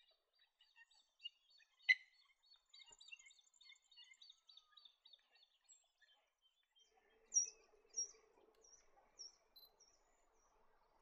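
Birds calling: a rapid, even series of short high chirps, about four a second, then a run of about six sharp, higher notes over a faint chattering murmur.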